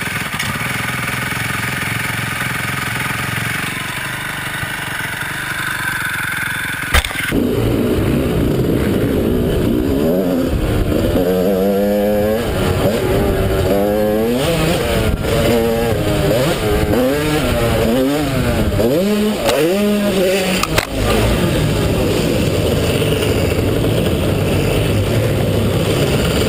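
Dirt bike engine being ridden, its pitch rising and falling over and over as the throttle opens and closes and it shifts gears. The sound changes abruptly twice, at about seven seconds and about twenty-one seconds.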